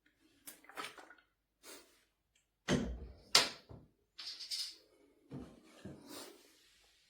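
A series of knocks and clunks, the two loudest close together about three seconds in, with softer knocks and rustling between.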